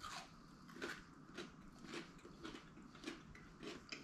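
Crunchy chocolate bar with a licorice filling and a crisped-rice coating being bitten and chewed: faint, crisp crunches about every half second to a second.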